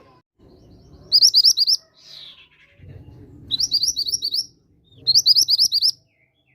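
Mantenan bird song: three short, fast phrases of rapidly repeated high chirps, each under a second, with a single downward-sliding note after the first, over a low background rumble.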